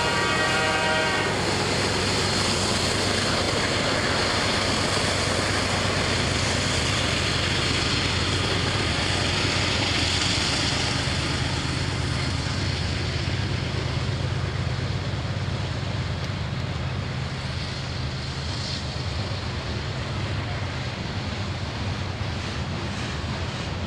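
A diesel locomotive horn chord cuts off about a second in, then the GE diesel locomotives' engines run with a steady low hum while covered hopper cars roll past on the rails. The whole sound slowly fades as the locomotives move away.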